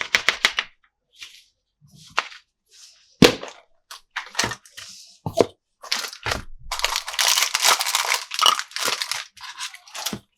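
Plastic toy packaging and parts being handled: a string of short clicks and crinkles, then a longer stretch of crinkling and tearing about seven seconds in.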